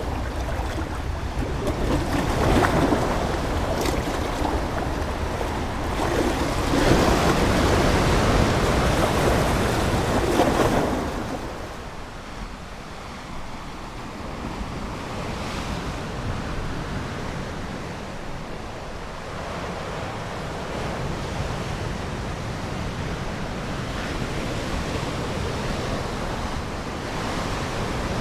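Ocean waves breaking and washing on a shore: two louder surges in the first half, the second cutting off at about eleven seconds, then a quieter, steady wash.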